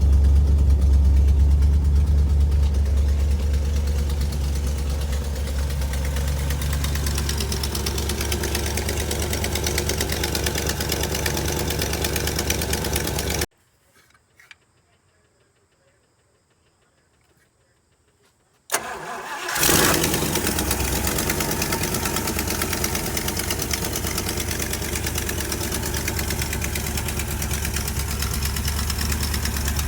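V8-swapped 1978 MGB's 3.5-litre aluminium V8 idling steadily. The sound cuts off about 13 seconds in, and after about five seconds of near silence the engine is started again and settles back into a steady idle.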